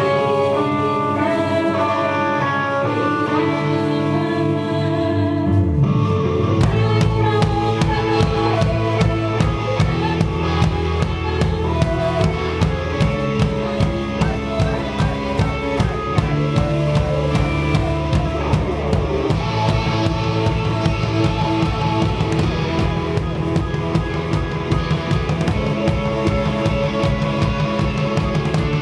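Live band playing: guitar and bass notes held for about the first six seconds, then the drum kit comes in with a steady beat and the full band plays on.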